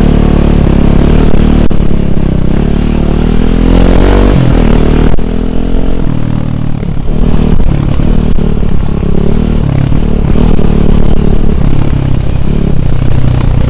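Dirt bike engine running under way on a trail, its revs rising and falling with the throttle. The revs climb about four seconds in, then drop sharply just after five seconds.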